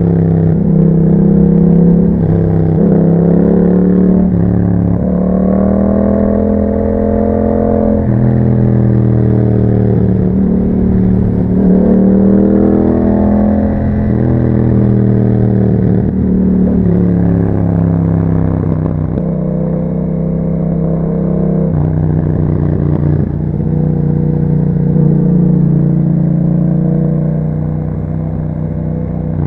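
Yamaha MT-07's parallel-twin engine through an Akrapovic exhaust with dB killers, ridden on the road. The engine pulls up in pitch several times, dropping back at each gear change, then settles into a steadier cruise in the last third.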